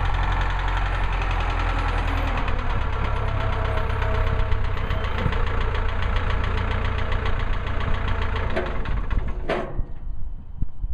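The gas engine of a Woodland Mills HM130 Max portable bandsaw mill running steadily, then dying away and stopping about nine and a half seconds in.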